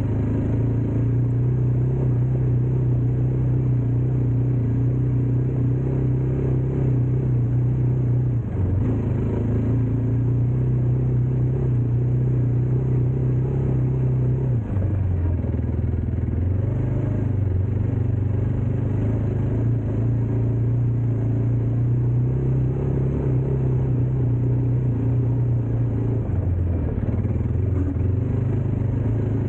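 Dirt bike engine running steadily under way, its pitch dropping and shifting about eight and fifteen seconds in as the throttle or gear changes.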